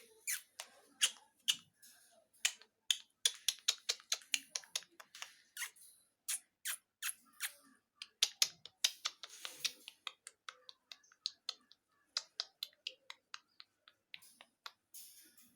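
Rapid, irregular clicking and tapping of ringneck parrots' beaks and claws on the metal wire bars of a cage, several sharp clicks a second.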